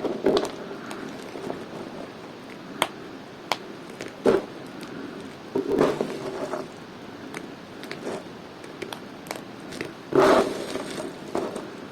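A blade cutting dry bar soap: short crisp crackling, scraping cuts with a few sharp ticks between them, the strongest cuts about four, six and ten seconds in.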